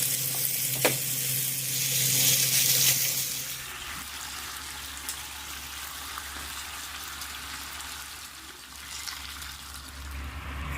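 Chicken sizzling as it grills, loud for the first four seconds and then quieter. A steady low hum runs under it and stops at the same point.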